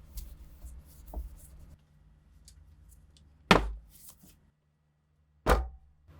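Two loud, sharp knocks about two seconds apart, each ringing briefly, after a few lighter clicks and taps of objects being handled.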